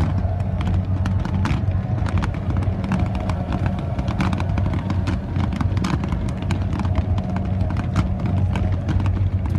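Fireworks fired from the water crackling and popping, several sharp pops a second, over a steady low engine-like drone.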